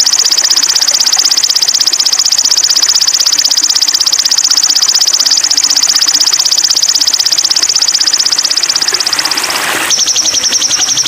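Sogon bird song: a loud, very fast, high-pitched buzzing trill held steady for nearly ten seconds, then switching abruptly to a slightly lower trill near the end.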